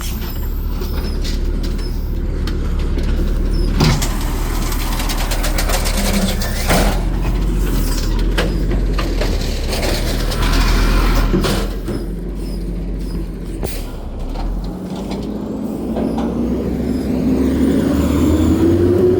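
Garbage truck engine running with a few sharp clanks and air-brake hiss; near the end the engine revs up, its pitch rising steadily.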